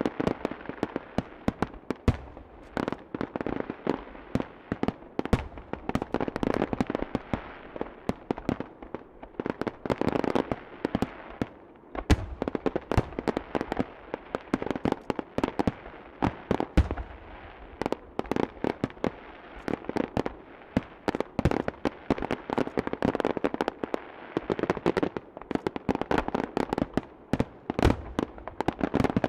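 Fireworks display: a continuous dense crackling of many small bursts, with a few deeper booms of shells bursting, the strongest about 12 and 17 seconds in.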